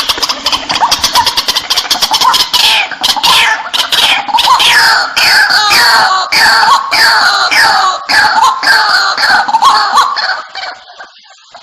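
White-breasted waterhen (ruak-ruak) lure call: a loud run of rapid harsh notes that settles into repeated falling calls, about two a second, stopping near the end.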